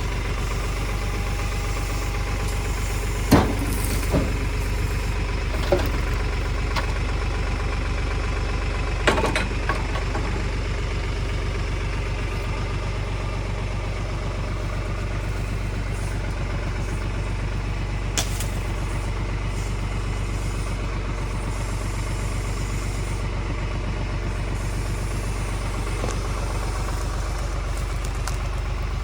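Tractor engine running steadily at a low idle. A few sharp knocks come in the first ten seconds, and one more near the middle.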